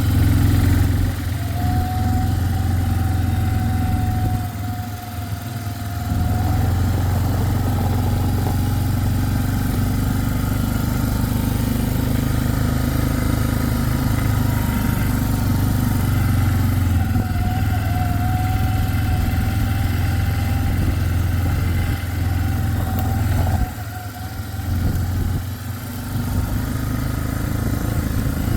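Engine of a small vehicle running steadily as it is driven, with a faint wavering whine above the engine note. It eases off briefly twice, about four seconds in and again near the end.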